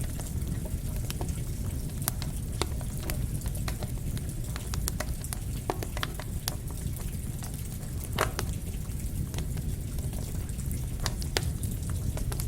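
Campfire crackling, with sharp irregular pops and snaps over a steady low rush, blended with falling rain.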